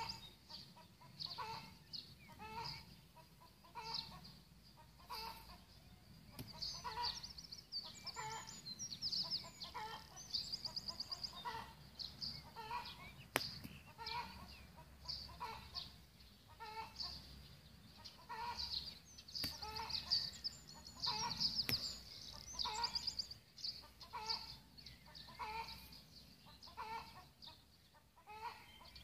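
Birds calling: a short lower call repeats about once a second, while small birds chirp higher up, with a quick trill about eleven seconds in.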